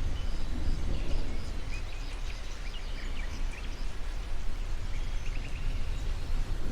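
Nature soundscape: birds chirping over a steady low rumbling background, with scattered short calls about two to three seconds in and a quick run of about five chirps about five seconds in.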